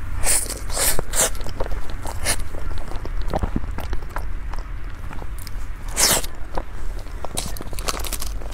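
Close-miked wet chewing and lip-smacking of a mouthful of soft cake, with irregular sharp smacks, the loudest about a second in and about six seconds in.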